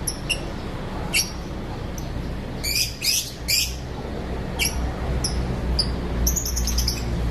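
Lovebirds chirping: scattered short, sharp, high-pitched chirps, a louder cluster of harsh calls about three seconds in, and a quick run of chirps near the end, over a steady low rumble.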